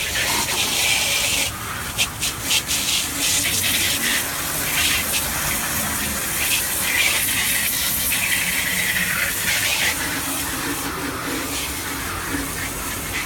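Water spraying onto a refrigerator being washed, a continuous hiss that wavers as the spray moves over the surfaces.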